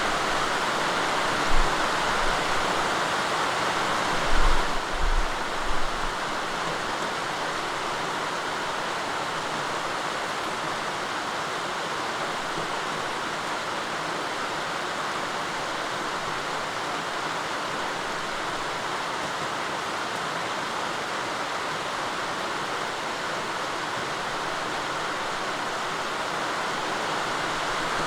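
Steady rain falling, an even hiss of water, with a few low thumps in the first six seconds.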